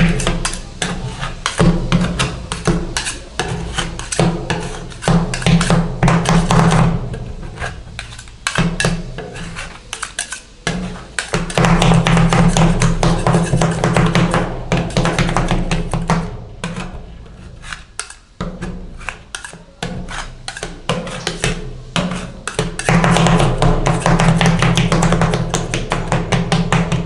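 Metal spatulas rapidly chopping and tapping on an ice cream roll cold plate, in fast dense runs with pauses between, over a steady low hum.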